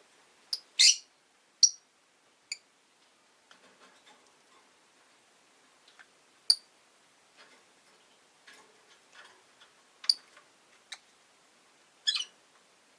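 Rosy-faced lovebirds giving short, sharp high-pitched chirps at irregular intervals, the longest about a second in and another near the end, with faint ticking and scratching between the calls.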